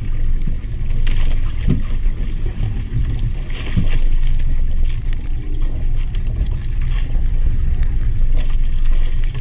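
A small fishing boat at sea: a steady low rumble with wind and water hiss, and occasional splashes.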